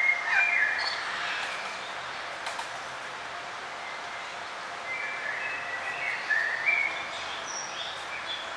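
Small songbirds chirping over a steady outdoor hiss: a cluster of short whistled notes at the start, then another run of chirps and short rising notes from about five seconds in.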